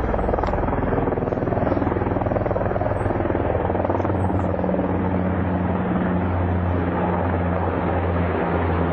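Low-flying military helicopter passing overhead, its rotor beating steadily.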